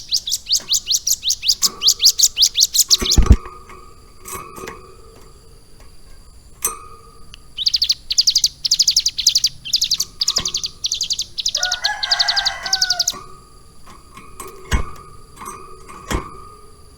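Ciblek gunung singing: fast, high trills of rapidly repeated notes, a harsher chattering phrase near the end of the second trill, and scattered short calls. The song is trained to carry lovebird phrases. A few sharp clicks sound in between.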